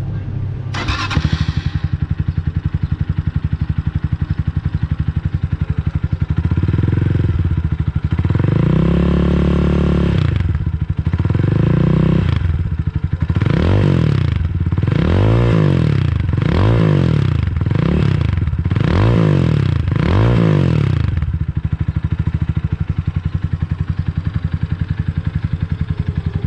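GPX Legend 200 single-cylinder motorcycle engine running through a Tyga Classic aftermarket exhaust, with a brief sharp clatter about a second in. The engine idles, is revved twice, then blipped about seven times in quick succession roughly a second apart, and settles back to a steady idle near the end.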